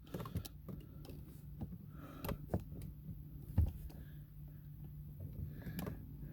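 A few light, scattered clicks and knocks over a faint steady low hum.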